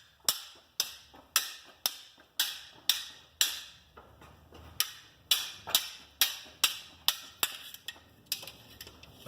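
A steady series of sharp knocks, about two a second, each dying away quickly, with a short break a little before halfway.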